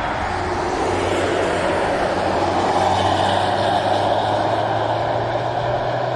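Hyundai i30 N prototype's turbocharged 2.0-litre four-cylinder driving by at speed, its engine note growing louder to a peak about halfway through and then easing off slightly.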